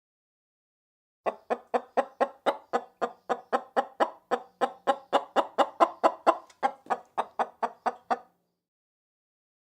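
A chicken clucking: a fast, even run of short clucks, about four a second, for some seven seconds, then stopping.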